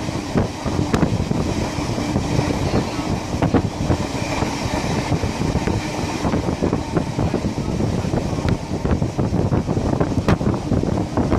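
Passenger carriage of a steam-hauled train running at speed: a steady rumble of wheels on the rails with frequent irregular clicks and knocks.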